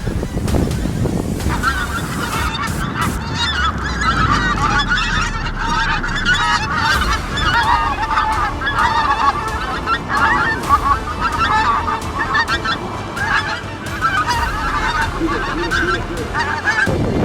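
A flock of pink-footed geese calling, a dense overlapping chatter of short honks that starts about a second and a half in and carries on almost to the end. Wind rumbles on the microphone underneath.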